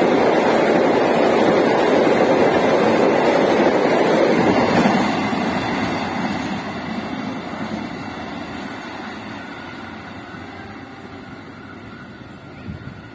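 Freight train of flat container wagons rolling past on the rails, its wheel and rail noise loud for about the first five seconds, then fading steadily as the train draws away into the distance.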